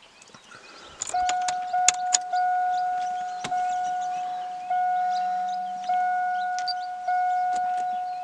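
An electronic chime in the truck's cab: one steady, mid-pitched tone struck about six times, roughly once a second, each stroke fading before the next, with a few sharp clicks of handling among the first strokes.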